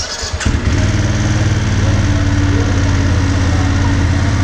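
BMW F 850 GS parallel-twin engine cranked by its electric starter, catching about half a second in and settling into a steady idle.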